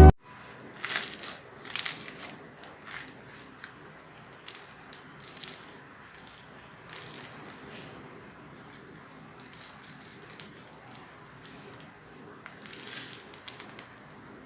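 Slime being squished and worked by hand: soft, irregular crackling and squishing pops, more frequent in the first half, with one more cluster near the end.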